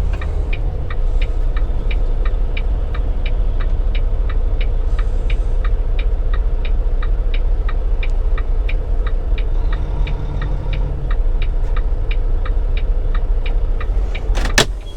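Semi-truck cab on the road: a steady low engine and road rumble with a turn signal clicking evenly, about three clicks a second. One sharp knock about a second before the end.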